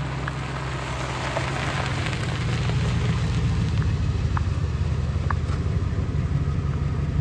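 New Edge Mustang GT's 4.6-litre two-valve V8 through an SLP Loudmouth cat-back exhaust, running with a steady low drone that grows gradually louder, with a few faint ticks over a noisy hiss.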